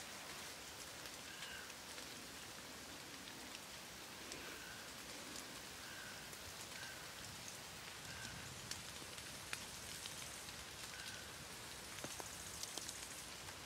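Faint patter of raindrops at the end of a thunder shower: scattered light ticks of drops over a steady soft hiss.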